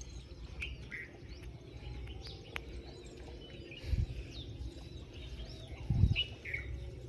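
Small birds chirping, short calls scattered throughout over a low rumble. Two dull low thumps, about four and six seconds in, are the loudest sounds.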